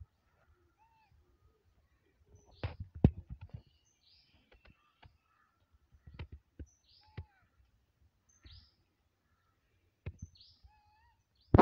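Short high bird chirps, each falling quickly in pitch, repeated every second or so, with a few lower whistled notes between them. Scattered soft knocks and thumps, the loudest about three seconds in.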